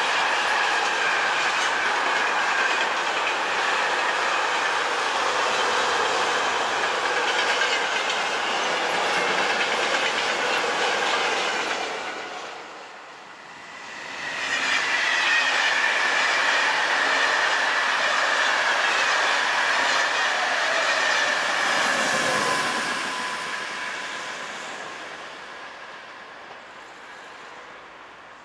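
A long container freight train rolling past, wheels clattering over the rail joints with a steady high wheel squeal. After a short drop about 13 s in, a second train's rolling noise rises again; its pitch falls around 22 s as it goes by, and then it fades away.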